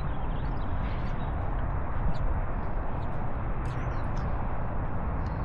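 Steady outdoor noise, heavy and rumbling in the low end, as of wind on the microphone, with a few faint high chirps and ticks scattered through it.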